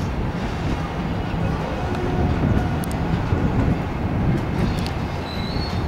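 Electric commuter trains moving through the station: a steady rumble of wheels on the rails, with a few sharp clicks and a brief high squeal near the end.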